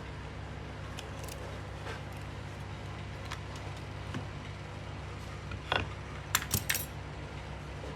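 Small metal clock parts being handled, giving scattered light clicks and then a quick run of metallic clinks near the end, over a steady low hum.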